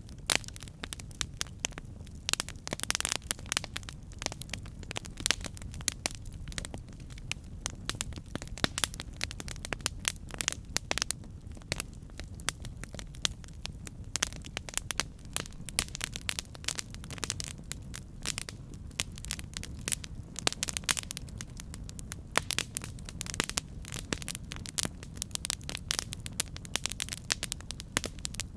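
Campfire burning with irregular sharp crackles and pops from the burning wood over a steady low rumble of the flames.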